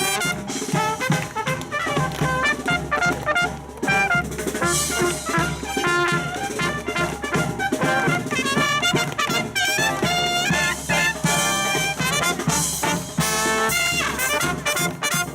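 Live brass band playing a lively swing-style tune, with trumpets and trombones over drums.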